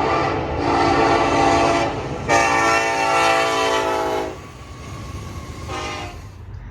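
Train horn sounding a series of blasts, each a chord of several tones: one ends just after the start, then two longer blasts follow, and a short toot comes near the end. A steady low rumble of the train runs underneath.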